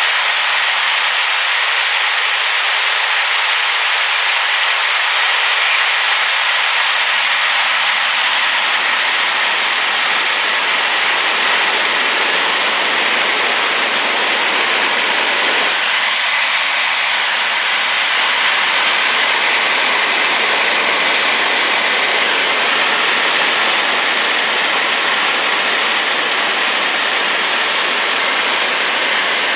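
A waterfall swollen by rain, with steady, loud rushing water that is mostly hiss and has little deep rumble.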